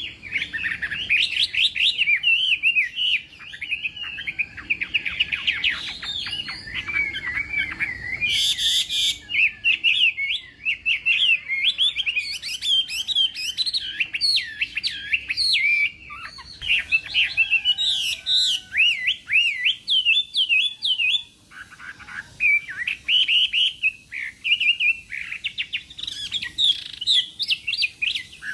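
Chinese hwamei (melodious laughingthrush) singing a long, fast, varied warbling song of quick rising and falling phrases, broken by short pauses. A brief harsh, buzzy note cuts in about eight seconds in.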